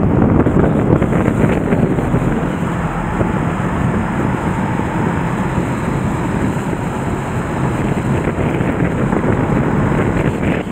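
The swollen Nagara River in flood, its fast water rushing in a loud, steady noise, with wind buffeting the microphone.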